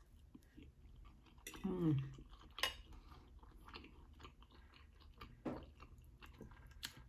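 Close-miked eating: a person chewing a mouthful of yellow rice, with scattered soft clicks and smacks of mouth and fork. About one and a half seconds in there is a short hummed sound from the voice.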